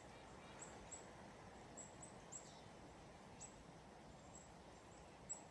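A small bird giving short, very high, thin chirps at irregular intervals over faint, near-silent forest background.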